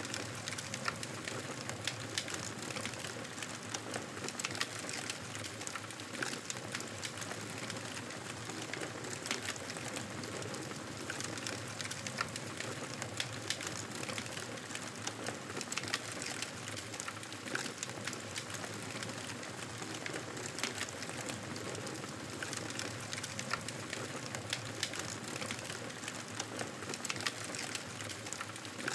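Campfire burning, a steady hiss with frequent sharp crackles and pops.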